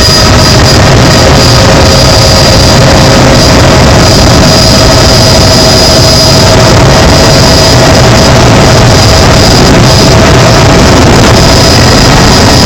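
Helicopter engine and rotor noise heard from inside the cabin: a loud, steady drone with a constant high whine, overloading the phone's microphone.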